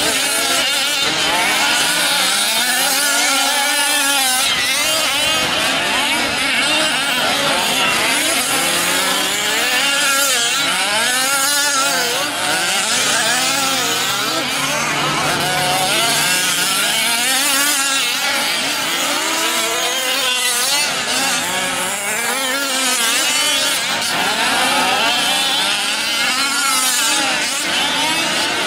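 Several 1/5-scale RC off-road trucks with small two-stroke petrol engines racing together, their engines revving up and down constantly and overlapping one another.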